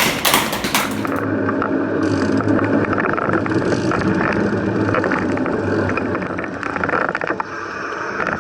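Group applause, cut off about a second in, followed by a steady mechanical noise with a low hum and scattered clicks and rattles.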